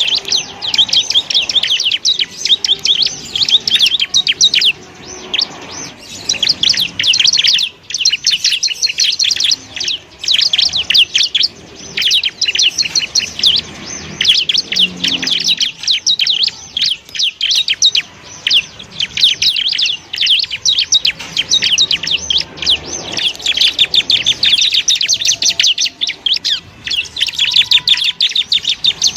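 Bar-winged prinia (ciblek) singing: a fast, continuous run of high, rapid chirps with only brief pauses.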